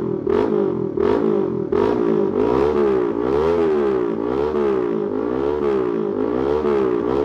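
Honda Winner X motorcycle's 150 cc single-cylinder engine revved through an aftermarket exhaust, a sound called very powerful even on light throttle. It starts with a few quick, sharp throttle blips, then the revs rise and fall about once a second.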